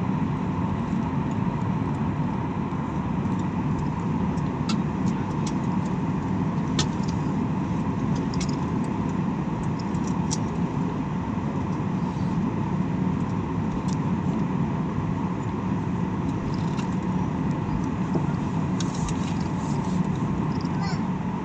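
Airliner on the move: steady engine and air noise with a low hum, and scattered light clicks and rattles.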